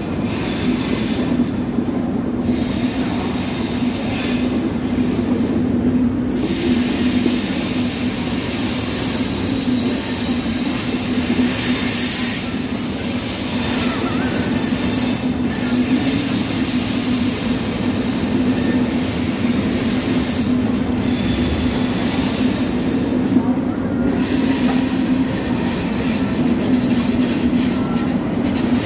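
A train runs past close by with a steady loud rumble of wheels on rails. A high wheel squeal comes and goes over the top, strongest around the middle.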